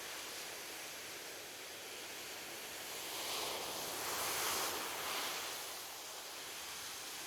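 Ocean surf: a steady wash of waves on a beach, with one wave swelling and breaking louder from about three seconds in, then fading.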